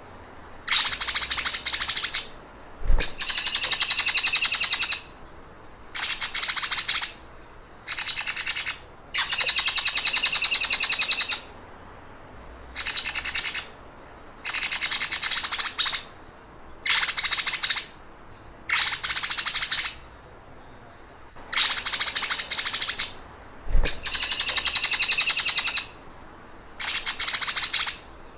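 Songbird singing its 'sewing machine' song: about a dozen phrases of one to three seconds, each a rapid, machine-like stream of high notes, with pauses of about a second between them.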